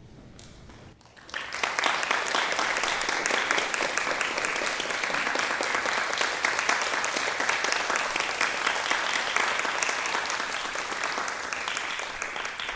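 Audience applauding, breaking out about a second in, holding steady and tapering off near the end.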